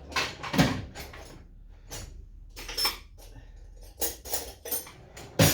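Metal clinks and knocks of tools and parts being handled while working on a small engine's carburettor; several separate sharp knocks, the loudest about half a second in and near the end.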